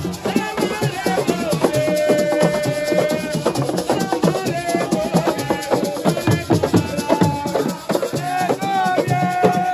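Assiko music: a dense, fast pattern of hand drums and rattles under voices singing long held notes.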